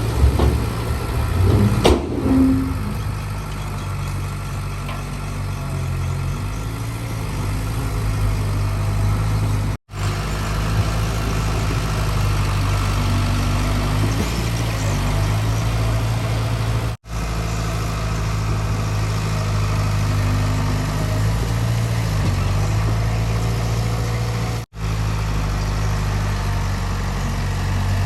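Heavy diesel engine of construction machinery running steadily, with a few knocks and clatter in the first couple of seconds and slight changes in engine speed. The sound cuts out abruptly for an instant three times.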